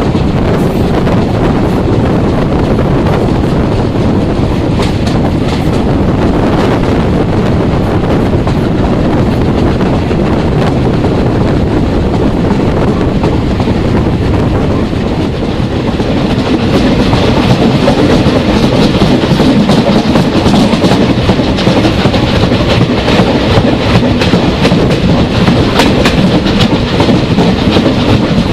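Train rolling along the track, its wheels clicking over the rail joints; the running noise grows louder about two-thirds of the way through.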